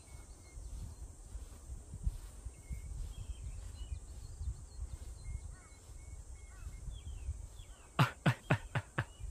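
Strong wind buffeting the microphone with a low, gusty rumble, while small birds chirp faintly. Near the end comes a quick run of about six sharp sounds.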